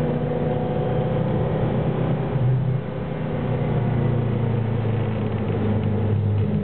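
Ferrari Enzo's V12 engine running hard, a steady engine note that dips briefly about three seconds in and climbs in pitch again near the end.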